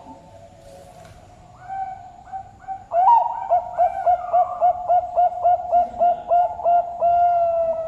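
Zebra dove (perkutut) singing: a few soft introductory coos, then a loud fast string of repeated cooing notes, about three a second, ending in one long held note.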